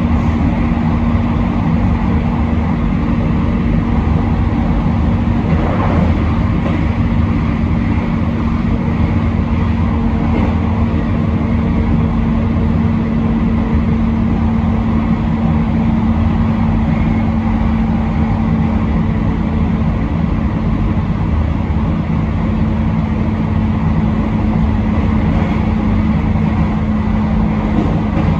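Train running steadily along the JR Hakodate Main Line, heard from the front of the train: a continuous rumble of wheels on rail with a constant low hum, and a brief extra rush of noise about six seconds in.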